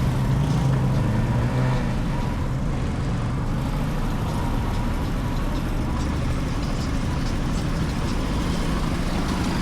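Motorcycle riding along a city street: engine hum under steady road and wind noise, with a deeper engine note over the first two seconds that then fades.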